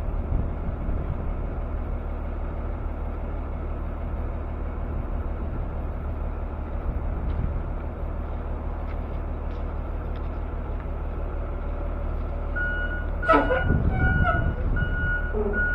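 Steady low drone of a semi-truck on the move, heard from inside the cab. About thirteen seconds in there is a sharp knock, followed by broken high-pitched beeping tones.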